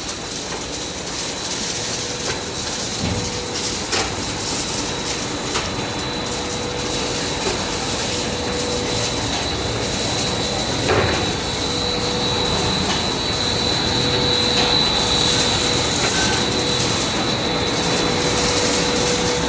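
Steady running noise of industrial machinery, a constant hum with a high whine over a broad hiss, with an occasional sharp metallic knock.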